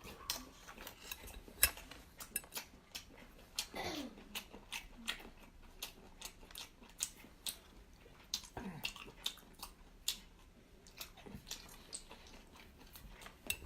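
Close-up eating sounds: a run of short, sharp clicks of utensils against a dish, with chewing. Two brief downward-sliding tones come about four and nine seconds in.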